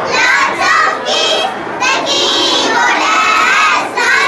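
A group of young children shouting together in loud, high voices.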